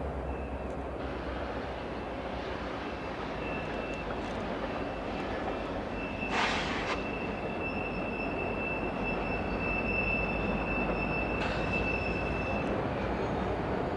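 BNSF freight train rolling past, its locomotives and tank and hopper cars making a steady rumble on the rails that grows slightly louder. A thin, high wheel squeal comes and goes over it until near the end, and there is a short sharp burst about six and a half seconds in.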